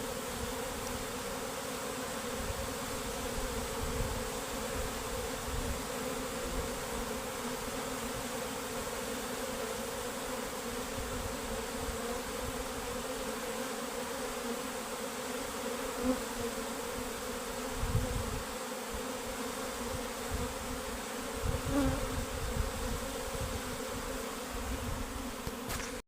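Honey bees buzzing as a swarm, a steady hum of many wings as the colony leaves its hive, with a few brief low thumps around halfway through and later on.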